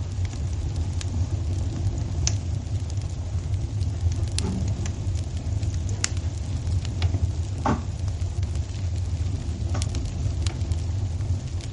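Wood fire in a fireplace crackling: scattered sharp pops and snaps over a steady low rumble, with one fuller snap a little past halfway.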